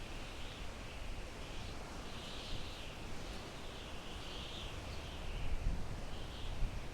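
Wind blowing through pine trees: a steady rushing hiss with an uneven low rumble. Over it, short high calls from an animal repeat about once a second.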